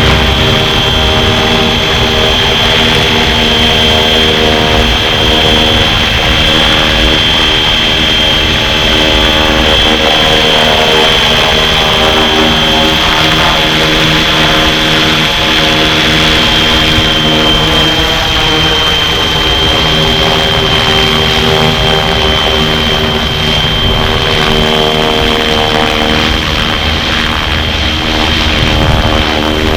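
Flywing FW450 V3 RC helicopter in flight: its electric motor gives a steady high whine over the hum of the spinning rotor. The pitch drifts up and down a little as the head speed changes.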